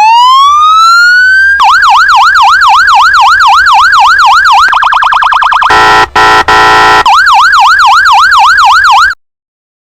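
Electronic police siren sound effect. It winds up with a rising glide, then sweeps rapidly up and down about three times a second and briefly switches to a faster yelp. Next comes a steady blaring horn tone broken twice, then the sweeps return before it cuts off suddenly near the end.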